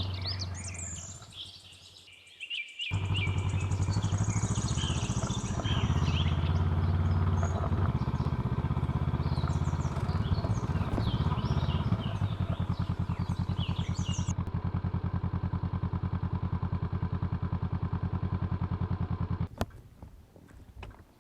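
Honda CL500 parallel-twin engine starting about three seconds in and idling steadily with an even low pulse, birds chirping over it. The engine stops abruptly near the end.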